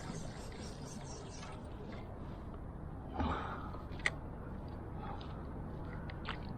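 Steady wind and water noise, with a short rustle about three seconds in and a single sharp click about a second later.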